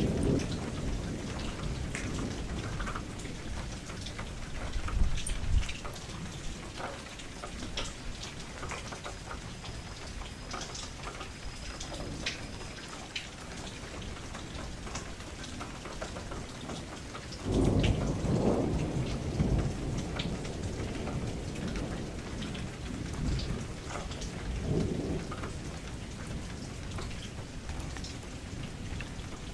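Steady rain falling on a window, with scattered sharp drop ticks over an even hiss. Low thunder rumbles roll in several times, the loudest about halfway through and lasting a couple of seconds.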